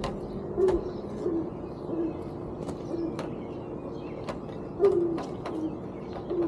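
A dove cooing in short low notes, repeated several times, with scattered sharp clicks and taps.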